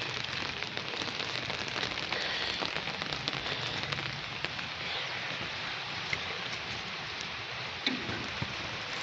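Rain falling steadily: an even hiss with scattered small drop ticks, a couple of them a little louder near the end.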